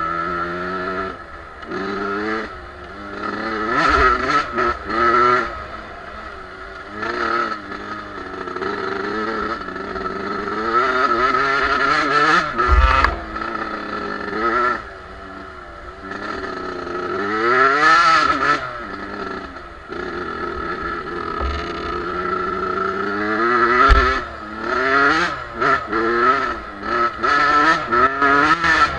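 Two-stroke Suzuki dirt bike engine being ridden off-road, revving up and falling back over and over as the throttle opens and closes. Short clattering noises and a few low thumps come through along with it.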